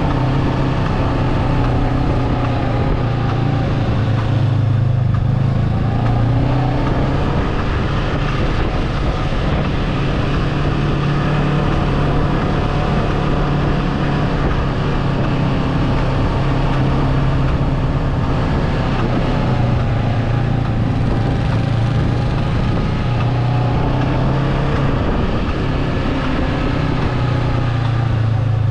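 Motorbike engine running while riding, its pitch dipping and rising a couple of times as the throttle changes, over a steady rush of wind and road noise.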